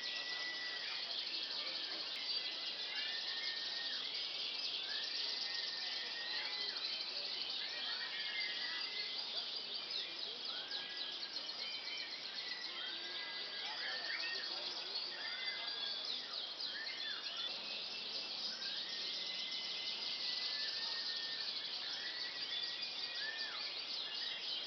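Canaries calling: short arched whistled notes repeating every second or so, over a continuous high twittering from several birds.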